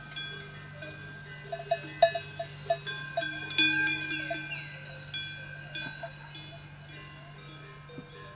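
Small metal bells ringing irregularly at several pitches over a steady low hum, with the strongest strikes about two and three and a half seconds in.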